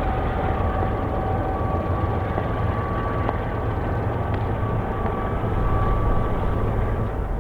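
Freight train cars rolling past on the rails: a steady rumble with faint thin whines over it. The low rumble falls away near the end.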